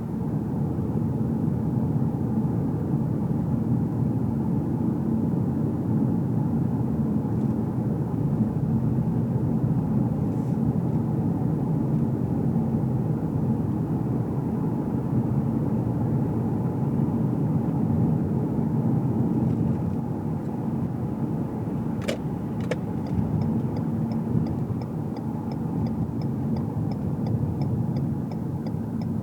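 Steady road and engine noise heard inside a moving car's cabin, easing a little as the car slows. About three-quarters of the way through come a sharp click and a second fainter one, then the turn-signal indicator starts ticking steadily at about three ticks a second.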